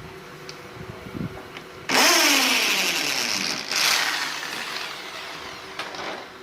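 A carpenter's electric power tool, such as a saw cutting wood, starts loudly about two seconds in, its motor pitch falling as it bogs under load. A second loud surge follows, then the motor winds down as the sound fades.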